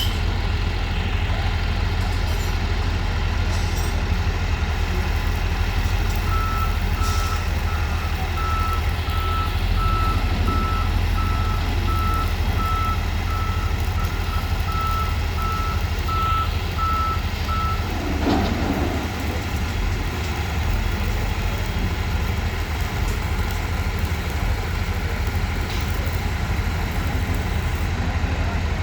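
Heavy construction vehicle's diesel engine running steadily, with its reversing alarm beeping about once a second for some twelve seconds in the middle.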